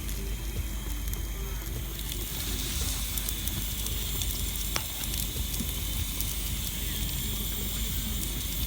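Fish sizzling and crackling on a barbecue grill, a steady hiss dotted with many small pops.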